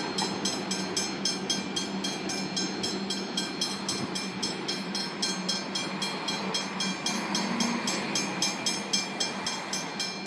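Comeng suburban electric train pulling out of the station, a steady hum and whine under a fast, even rhythm of clicks from the moving train.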